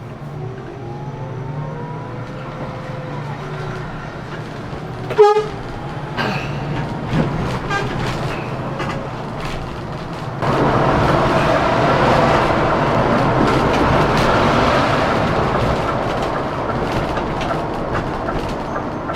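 A Scania K410CB coach on the road: its diesel engine hums steadily under the road noise. A short horn toot about five seconds in, then a sudden louder rush of tyre and road noise from about ten seconds in that eases toward the end.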